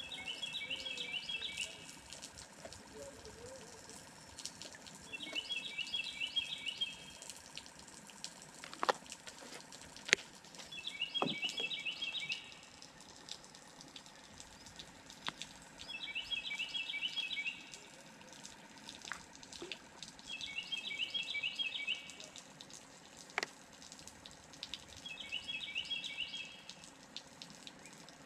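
A songbird singing the same short, rapid phrase about every four to five seconds, six times over. A few sharp clicks fall between the songs, the loudest about ten seconds in.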